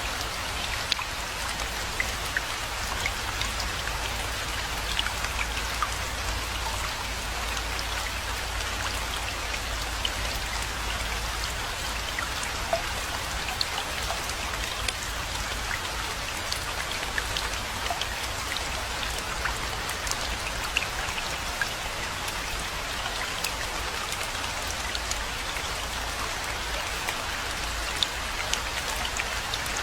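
Steady rainfall, a dense even hiss with individual drops ticking sharply throughout.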